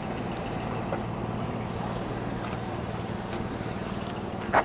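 Road traffic: a steady hum of vehicles, with a passing vehicle's tyre hiss rising in the middle and fading about four seconds in. A brief voice sound near the end.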